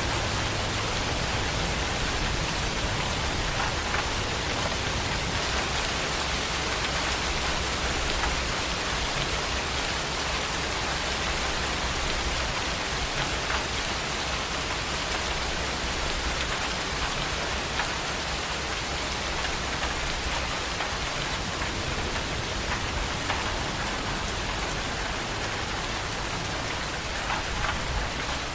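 Steady heavy rain falling, with scattered individual drops ticking on surfaces.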